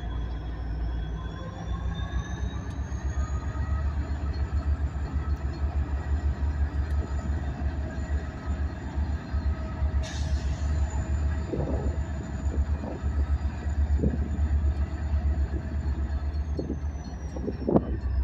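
Diesel locomotive working hard as it shoves a cut of freight cars, with a steady low throb; its pitch rises about two seconds in and eases back down near the end. Several short squeals from the moving cars come in the second half, the loudest near the end.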